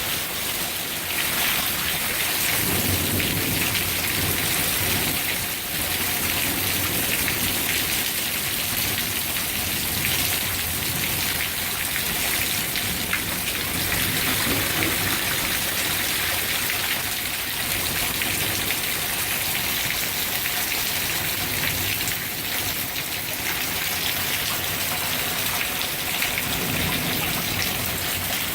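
Heavy rain pouring down steadily in a thunderstorm, with low thunder rumbling at times.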